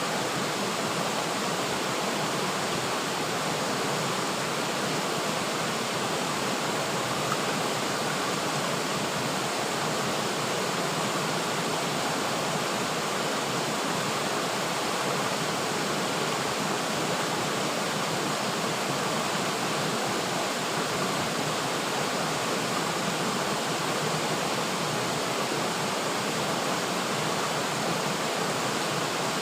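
River water flowing steadily over rocks, a continuous even rush.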